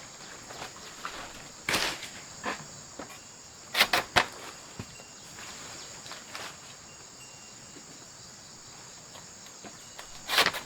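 Steady high-pitched drone of insects, broken by a few brief noisy scuffs or knocks from outdoor work, two of them close together about four seconds in.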